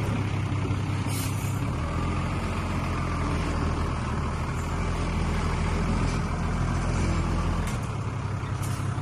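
Heavy diesel engine of earthmoving machinery running with a steady low drone that changes note near the end, with a few brief clicks.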